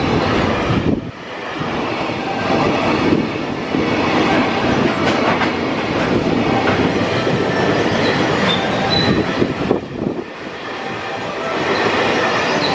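Freight train's wagons rolling past at speed: a steady rush of wheel-on-rail noise that dips briefly about a second in and again near ten seconds, with faint high-pitched wheel squeals.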